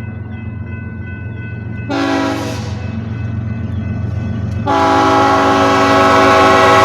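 BNSF freight locomotive's multi-chime air horn: a short blast about two seconds in, then a long, louder blast starting near five seconds in, over the steady low rumble of the approaching train's diesel engines.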